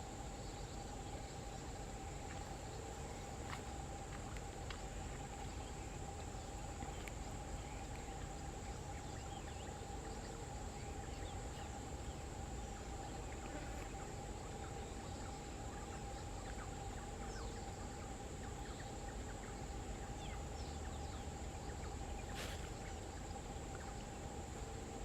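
Steady insect chorus with faint, scattered short chirps.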